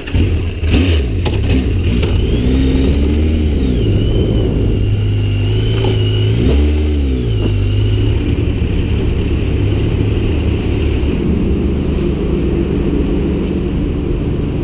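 Motorcycle engine running at low speed, its revs rising and falling twice, with a high wavering whine over it.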